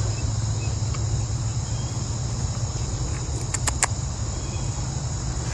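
Steady chorus of crickets over a low rumble, with a few sharp clicks a little over halfway through.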